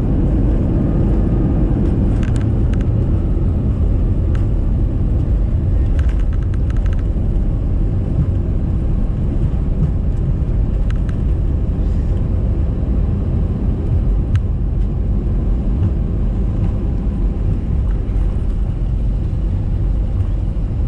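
Cabin noise inside an Airbus A320-214 rolling along the runway and taxiway after landing: a steady low rumble of the wheels and idling CFM56 engines, with a few faint clicks and rattles.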